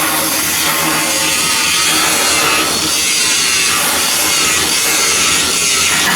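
A power tool running steadily and loudly on shipbuilding steelwork.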